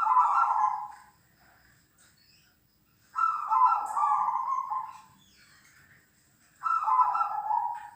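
Zebra doves (perkutut) cooing: three cooing phrases, one at the start, one about three seconds in and one near the end, with pauses between.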